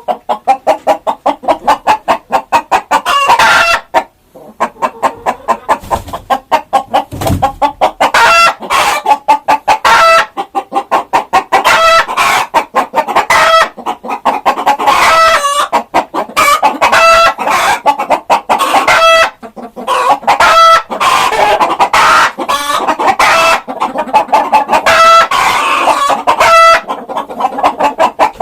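Chickens clucking, a dense run of short, rapid calls with no pause.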